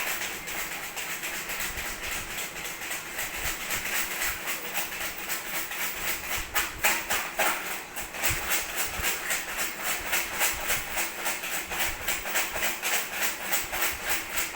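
Baby rattle shaken in a fast, even rhythm, a steady rapid rattling that goes on throughout.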